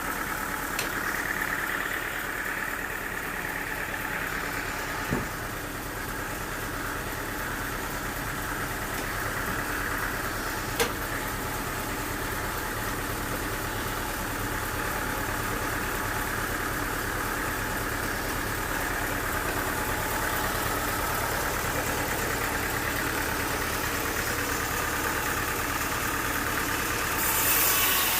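An engine running steadily at idle, with two short sharp knocks about five and eleven seconds in. A hiss comes up near the end.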